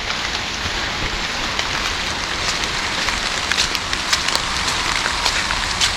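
Heavy rain bucketing down: a steady hiss of rainfall with scattered sharp drop ticks.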